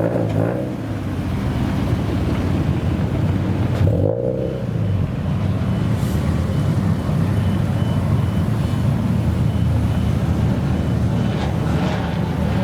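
Modified car engine running with a steady, low exhaust note, with a short blip about four seconds in.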